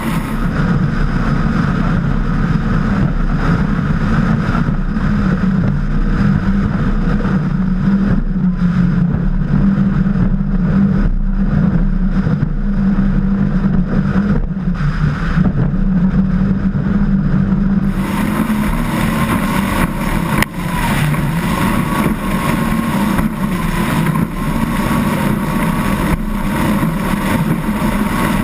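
Engines of a 36 Skater powerboat running steadily at speed, with the rush of wind and water over them; about two-thirds of the way in, a louder hiss of wind joins.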